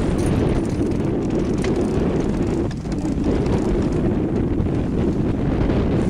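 Wind buffeting the microphone: a steady, loud low rumble with a brief lull a little before halfway.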